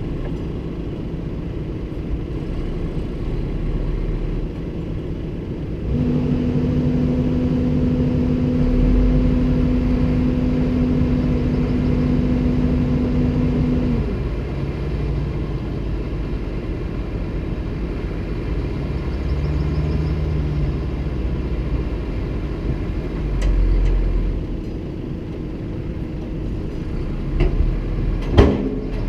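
Komatsu PC290-10 excavator's diesel engine running with a steady low rumble. About six seconds in, a louder steady droning tone comes in and holds for about eight seconds before dropping away, and a few sharp knocks sound near the end.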